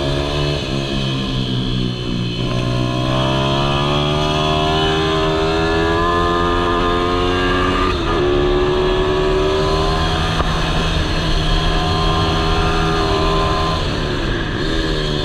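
Malcor Racer R 155cc pit bike's single-cylinder engine running hard on track, its pitch climbing as it accelerates and falling as it slows, with a sudden dip about eight seconds in and another drop near the end.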